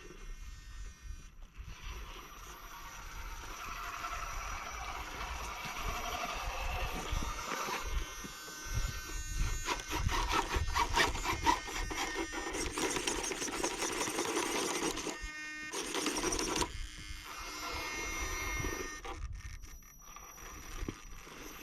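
Electric motor and geared drivetrain of a shaft-driven RC rock crawler whining in throttle pulses as it crawls, the pitch rising and falling, over wind rumbling on the microphone.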